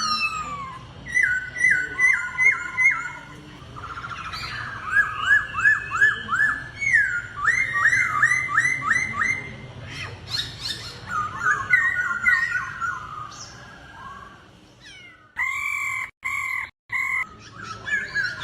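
A laughingthrush singing its competition song: bursts of five to seven rapid, falling whistled notes, repeated phrase after phrase. Near the end a steady held tone is cut by two sudden silent gaps.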